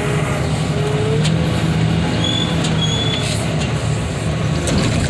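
Heavy machinery engine running steadily, with a couple of short high squeaks about two to three seconds in.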